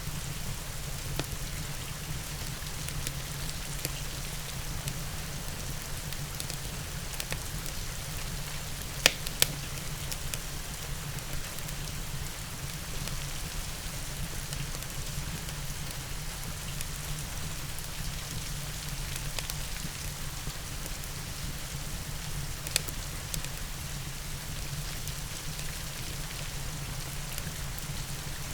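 Steady rain with a low rumble, mixed with a wood fire in a fireplace. Sharp crackling pops from the fire stand out twice about nine seconds in and once more about two-thirds of the way through.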